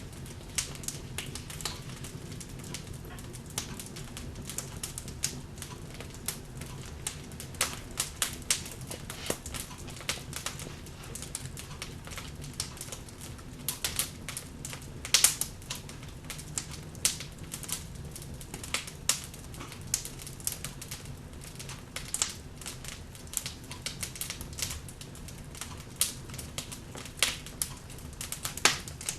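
Log fire in a fireplace crackling, with irregular sharp pops and snaps over a low, steady rumble of the flames.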